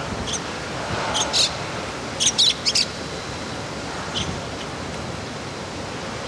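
Small birds chirping in short high calls, in a few clusters, over steady wind noise on the microphone.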